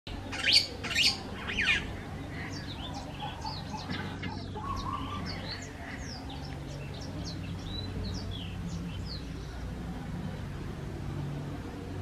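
Birds calling: three loud, sharp calls in the first two seconds, then a run of many short, high chirps, over a steady low hum.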